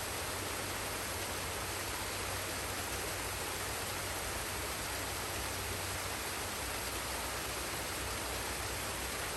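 Forest waterfall and stream: water rushing in an unbroken, even wash of noise.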